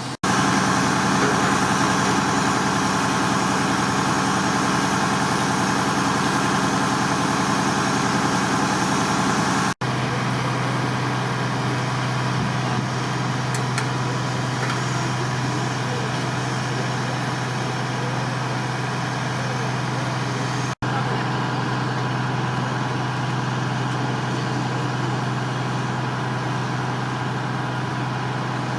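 A fire truck's engine running steadily at a constant pitch, with no siren. The sound cuts out briefly twice where separate clips are joined.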